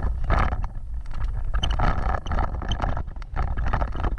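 Off-road vehicle driving over rough ground: a low rumble with frequent knocks and rattles.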